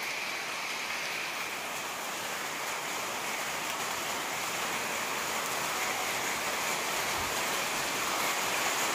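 Steady monsoon rain falling on a wet road, puddles and leaves, a continuous even hiss that grows a little louder toward the end.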